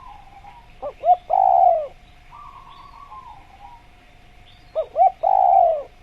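Spotted dove (tekukur) cooing twice, about four seconds apart. Each call is two short notes followed by a longer, falling coo. Fainter twittering can be heard between the calls.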